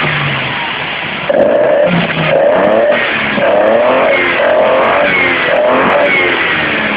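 Datsun straight-six built from an L24 block with a modified RB20E SOHC cross-flow head, on Weber carburettors, being revved in repeated throttle blips: about six swells in pitch, each rising and falling within roughly half a second, starting about a second in.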